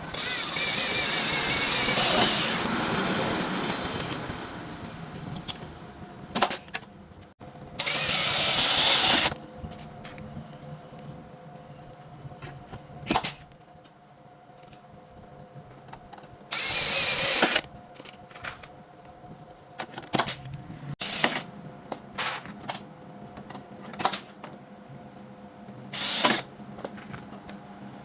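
Power tool running in four bursts, the first about four seconds long and the others about a second each, with sharp clicks and knocks of metal work between them.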